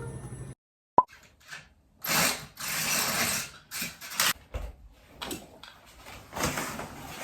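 Background music ends, a single sharp click about a second in, then a run of irregular, rustling, rushing noises with short gaps between them.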